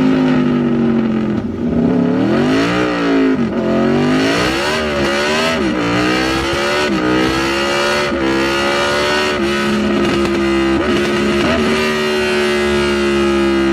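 2010 Aprilia RSV4 Factory's V4 engine, through a Racefit slip-on exhaust, revved in several quick blips. The revs then step up a few times and hold at a steady speed that sags slowly toward the end.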